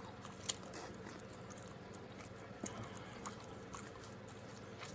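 Faint chewing and mouth sounds, a few soft scattered clicks over low background hiss.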